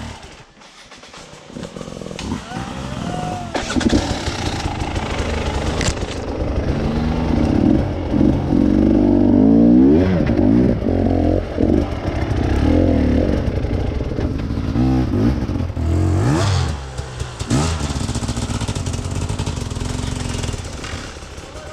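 Trail motorcycle engine revving hard, its pitch rising and falling again and again as the throttle is worked, loudest through the middle and easing off near the end.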